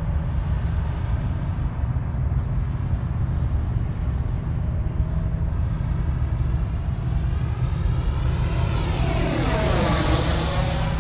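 Freewing F-86 Sabre 80 mm electric ducted fan RC jet in flight, its fan giving a steady high whine over a low rumble. About eight seconds in it swells into a close pass, loudest near the end.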